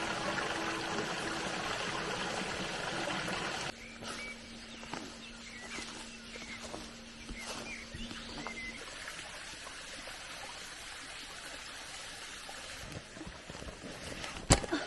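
A stream running steadily, cut off abruptly about four seconds in to quieter outdoor ambience with a few short chirps and light clicks. A sharp click comes near the end.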